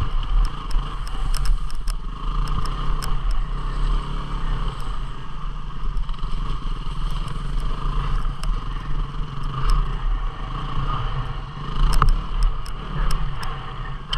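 250 cc single-cylinder dual-sport motorcycle engine running steadily while riding a trail, with scattered sharp clicks and clatter that come thickest near the end.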